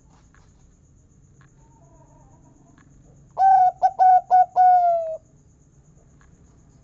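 A local perkutut (zebra dove) singing one song phrase about halfway in: a quick run of short cooing notes, then a long final 'kung' note that slides slightly down.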